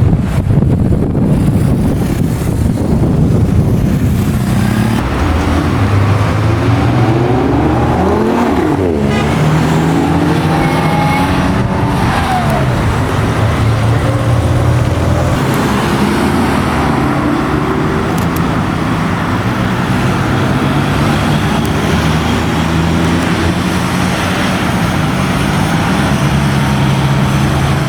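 Classic car engine running close by, its pitch climbing and falling through the revs for several seconds, then settling into a steady running note.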